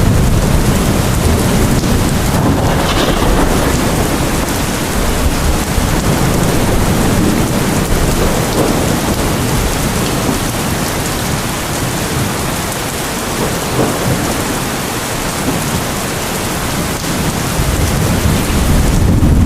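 Heavy rain falling steadily, with a low rolling rumble of thunder underneath that eases in the middle and builds again near the end.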